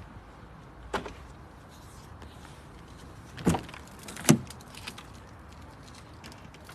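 Three sharp clunks about a second, two and a half seconds, and under a second apart, the last the loudest, with a few lighter clicks, over a faint steady background.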